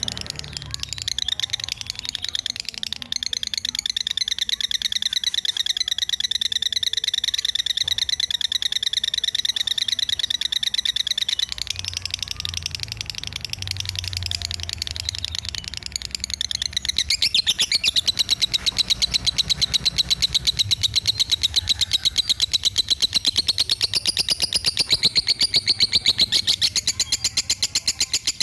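Lovebird singing in the 'fighter semi minor' style: a long, unbroken run of very rapid, high chirps that gets louder a little past halfway. This is a tutor song recording, played to teach other songbirds.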